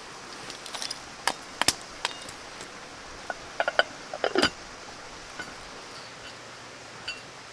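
Light metal clinks and knocks of camp cooking gear being handled, in two short clusters, over a steady hiss.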